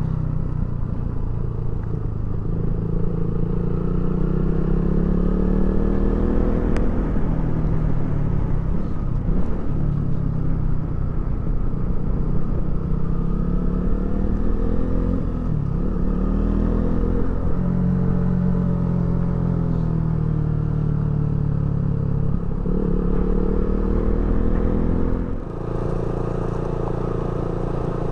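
KTM Duke 200's single-cylinder four-stroke engine running under way. Its pitch climbs and then drops several times as it pulls through the gears.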